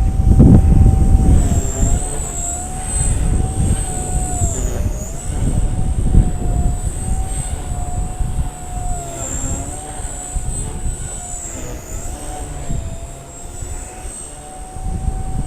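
Small electric RC helicopter, a Blade 130 X, whining steadily in flight, its pitch dipping and recovering every few seconds as the rotor speed changes. Wind buffets the microphone with a heavy rumble, strongest at the start.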